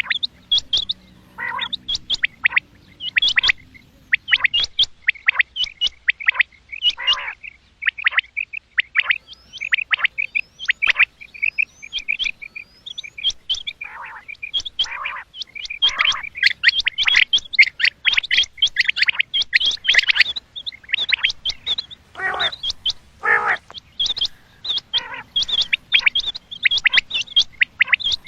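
Common quail calling: a rapid, continuous run of short, high chirping notes, many overlapping, with no pause.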